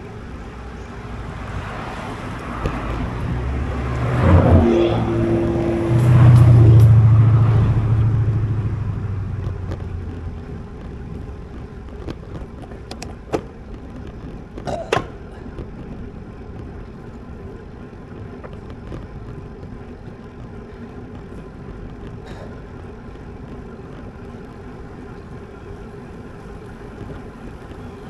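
A motor vehicle passes close by, growing louder over a few seconds, loudest about five to eight seconds in, then fading away. Steady wind and road noise sits underneath, with a couple of sharp clicks later on.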